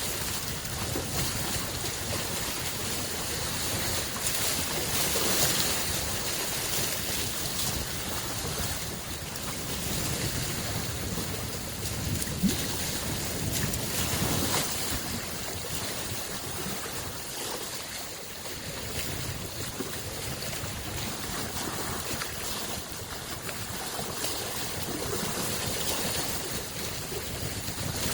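Small lake waves lapping and washing against the shore in a steady wash that swells and eases every few seconds, with one brief sharper sound about twelve seconds in.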